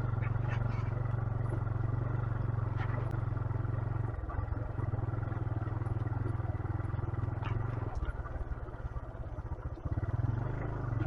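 A 125cc motorcycle running along on the move, a steady low drone. From about eight seconds in, the engine's rapid individual beats stand out more plainly.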